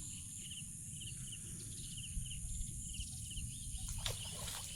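A bird calling in short, high chirps, mostly in pairs that repeat about every half second, over a steady low rumble. A few faint knocks near the end.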